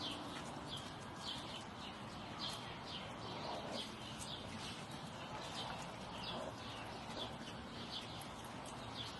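A bird chirping over and over: short, high, falling chirps about two a second, over a steady background hiss.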